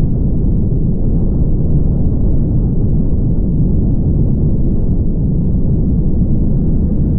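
Steady low rumble of a car on the move, road and driving noise with no distinct events.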